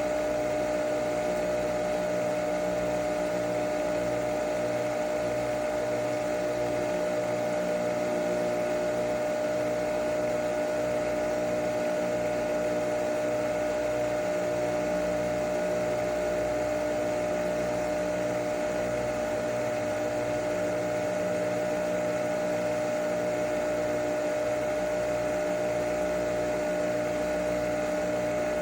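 Nespresso Vertuo Pop+ coffee machine brewing, its motor spinning the capsule: a steady mechanical whir with a high steady tone over a low, rhythmically pulsing hum.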